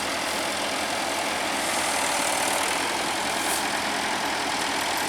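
Heavy diesel engine of the machinery running steadily at an even speed.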